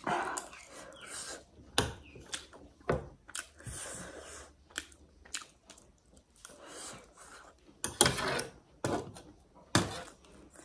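Close-miked chewing and mouth sounds of someone eating spoonfuls of rice and egg, broken by several sharp clicks and scrapes of a metal spoon against the serving tray.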